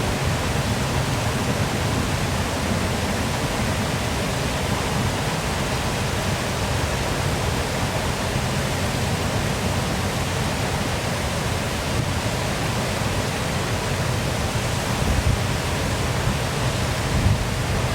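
Waterfall rushing with a steady, even roar of falling water, fullest in the low end. A few brief low surges of louder rumble come near the end.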